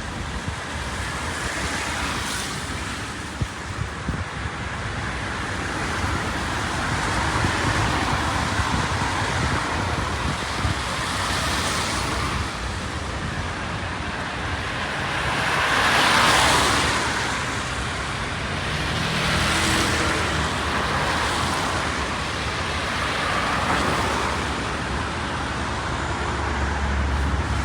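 Road traffic on wet streets in the rain: cars passing one after another, their tyre hiss swelling and fading. The loudest pass comes about sixteen seconds in.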